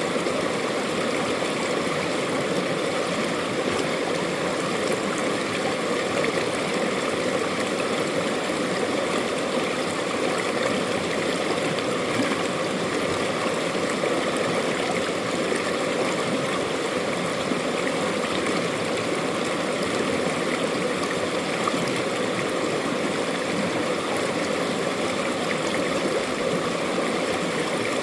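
Mountain valley stream flowing steadily over rocks, an even rushing and gurgling of water.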